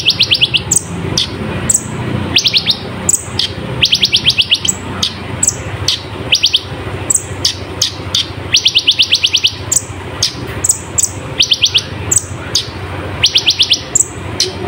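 Kolibri ninja sunbird singing: bursts of rapid high-pitched trilled notes every second or two, mixed with short, very high, sharp chips, over a low steady background hum.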